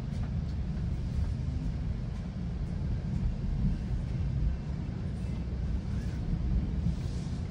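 Steady low rumble of a GO Transit bilevel passenger coach, heard from inside as the train pulls into a station.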